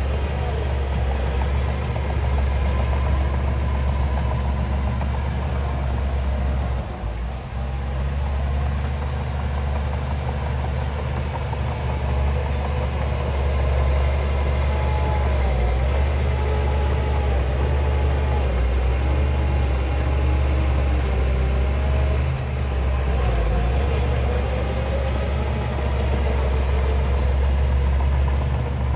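Heavy diesel engine of earthmoving machinery running steadily: a constant low drone with a higher tone that wavers up and down in pitch, dipping briefly about seven seconds in.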